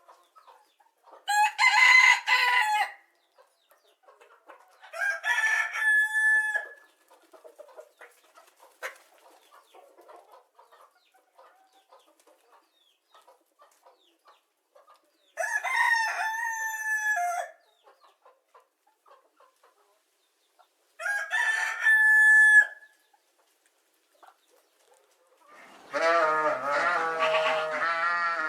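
A rooster crowing four times, each crow about a second and a half to two seconds long with long pauses between. Near the end a different, lower, wavering animal call begins.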